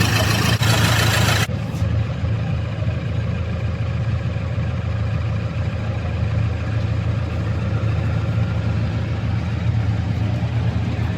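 Diesel engine idling steadily with a low hum. A loud hiss over it cuts off suddenly about a second and a half in.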